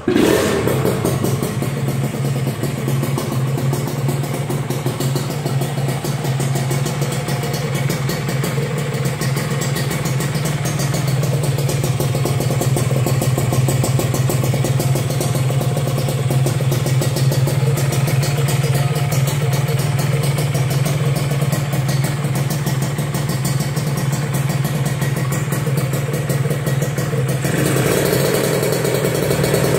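Kawasaki Ninja 150 two-stroke engine breathing through an aftermarket racing exhaust, starting abruptly and then idling steadily. Its tone shifts slightly near the end.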